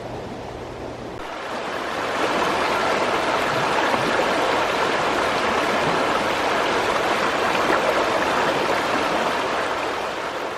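Mountain stream water rushing, a steady loud noise that comes in about a second in and fades out near the end.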